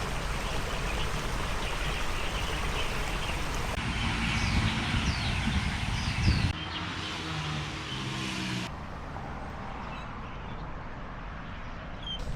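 Outdoor location ambience: a steady wash of distant traffic noise, with small birds chirping between about four and six seconds in. The sound changes abruptly a few times where shots are cut together.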